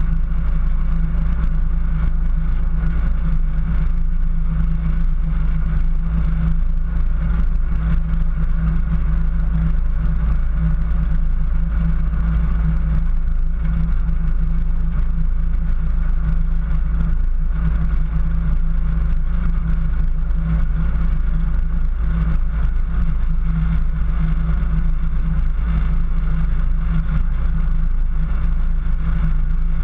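Jeep 4x4 engine running steadily while driving in the snow, a constant drone at an even pitch over a heavy low rumble, with no revving up or down.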